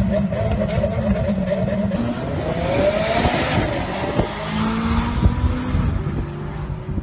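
A supercar's engine running with a steady note, then revving up about two and a half seconds in, with a rush of hiss at the peak and a few sharp knocks afterwards.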